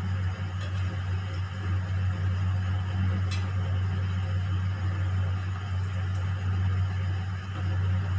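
Gujiyas frying slowly in ghee in a kadhai, a soft, even sizzle, over a steady low hum, which is the loudest sound. A metal slotted spoon gives a faint tap against the pan a few times as the pastries are turned.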